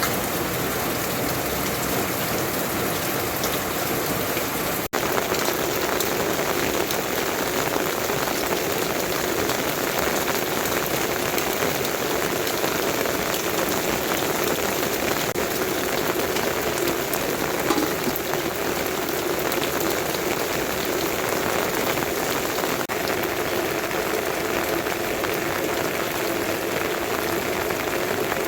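Steady rain falling, a dense even hiss of raindrops.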